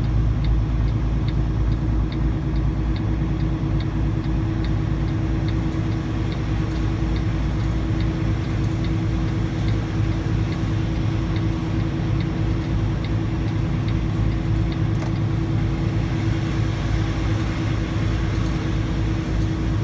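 Semi truck's diesel engine running steadily at low speed, a constant drone with a held tone. A light regular ticking, two or three ticks a second, runs alongside and stops about fourteen seconds in.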